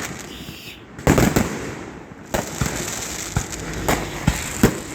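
Fireworks going off close overhead: a rapid, irregular series of sharp bangs and crackles. A burst comes about a second in, then a denser run of bangs through the second half.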